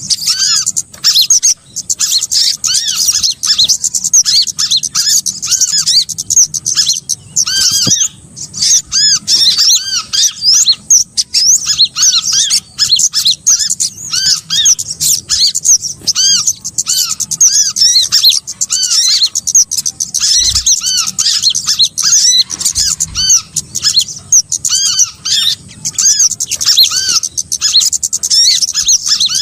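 Dense chorus of small songbirds chirping: rapid, high, arched chips overlapping with hardly a break, as in a bird-trapping lure recording meant to draw small birds in.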